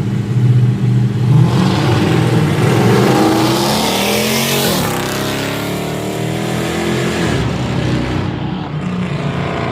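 Street-race car accelerating hard past at full throttle: the engine note climbs, then drops sharply about five seconds in as it goes by, and a low steady idle of nearby engines lies underneath.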